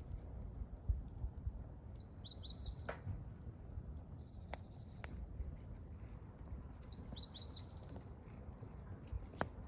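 Firewood burning in a campfire with a low steady rustle and a few sharp pops, while a small songbird sings two short phrases of quick chirps, each ending in a held whistle.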